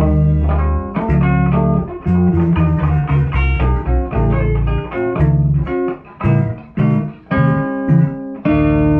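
Guitar and bass guitar playing a run of plucked notes over a low bass line, with a chord struck near the end and left ringing.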